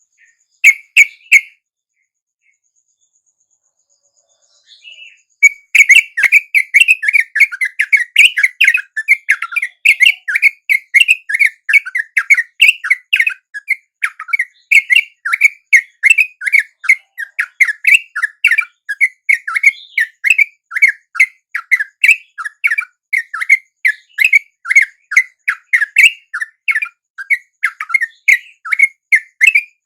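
Trucuk (bulbul) calls: a short burst of notes about a second in, then from about five seconds in a fast, unbroken chatter of short chirps, several a second.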